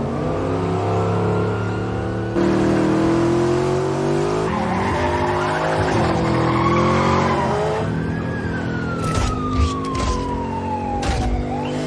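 Car-chase sound effects for a muscle car: an engine running hard at high revs, jumping louder a little over two seconds in, then a long falling whine from about eight seconds in and a few sharp knocks near the end.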